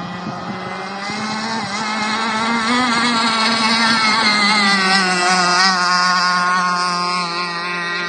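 Radio-controlled model boat running on a pond, its motor's whine wavering in pitch as the throttle and boat move, louder in the middle as it comes close and then easing off.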